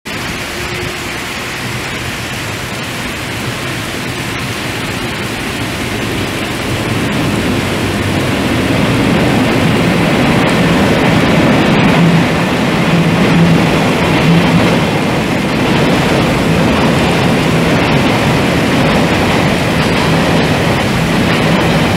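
Taiwan Railway freight train rolling slowly into a station: the E201 electric and R156 diesel-electric locomotives pass, followed by covered wagons and ballast hoppers. The sound is a steady rumble of wheels on rail that grows louder about a third of the way in as the locomotives come by, with a low hum from them.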